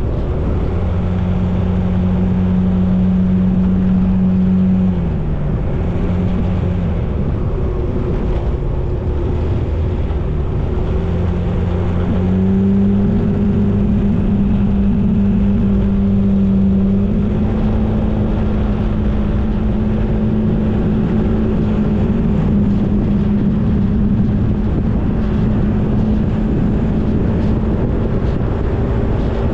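Motorbike engine running while riding, with wind and road noise over the microphone. The engine note drops about five seconds in, climbs again around twelve seconds in, then holds steady.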